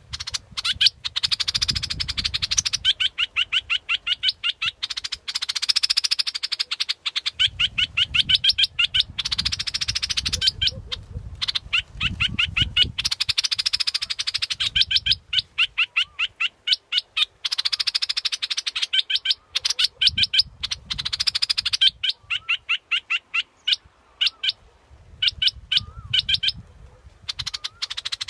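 Bulbul decoy call (the Thai นกปรอดดอกแตง) playing: fast, evenly repeated high chattering notes in phrases of a few seconds with short breaks between them. A low rumble sits underneath at times.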